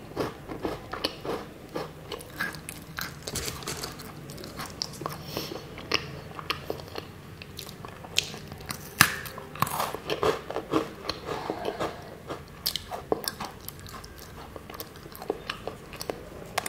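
Close crunching and chewing of a matcha biscuit: many small, irregular crunches, with a sharper bite about nine seconds in.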